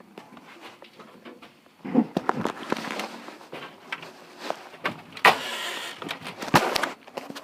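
Irregular knocks, clicks and rustling of someone moving about and handling things, with a louder rush of noise about five seconds in and a couple of sharp thuds after it.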